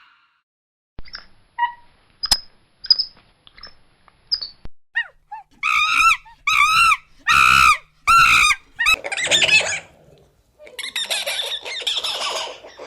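Animal calls: a few short high chirps, then four loud, shrill, arching calls in quick succession, followed by harsher chattering cries.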